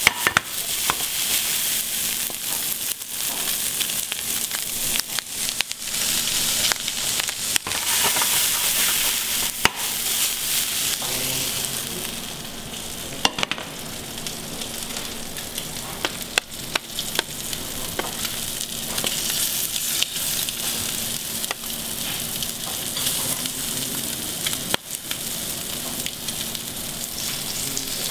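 Squid rings frying hot in a pan, a steady sizzle with scattered sharp clicks of pan and utensils. The sizzle drops in level about twelve seconds in and carries on more softly.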